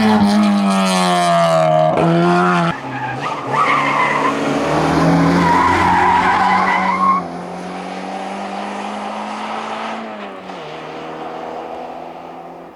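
Citroën hillclimb race cars at full throttle: the first car's engine dips through a gear change and pulls on. After a cut, a Citroën Saxo's tyres squeal through a corner, and its engine pulls away, shifts up about ten seconds in, and fades.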